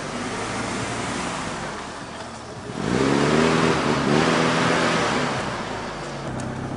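Ford Capri driving off on a dirt track, its engine revving up and dropping back a couple of times about three seconds in.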